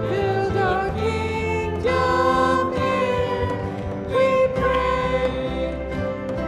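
Hymn-style music: voices singing held notes over accompaniment.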